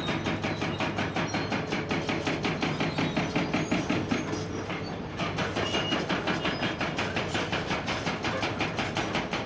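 Hydraulic breaker hammer on a Komatsu PC490 excavator pounding rock in a fast, steady run of several blows a second over the excavator's diesel engine. The blows ease off briefly about halfway through, then pick up again.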